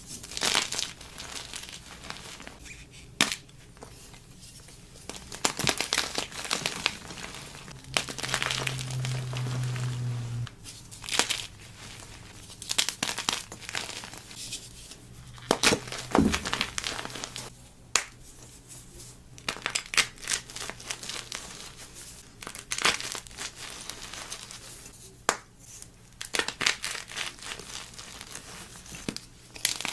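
Soft blocks of gym chalk being crumbled and crushed by hand: crackly crunching in irregular bursts, with a few sharp snaps as pieces break.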